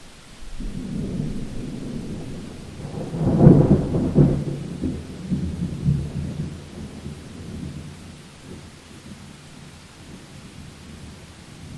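Thunder in a rainstorm: a low rolling rumble builds to a loud peal a few seconds in, then rolls away and fades over steady rain hiss.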